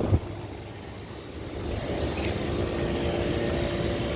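Daikin outdoor air-conditioning condenser running in cooling mode: a steady fan and machine hum with a low steady tone, getting louder from about halfway through.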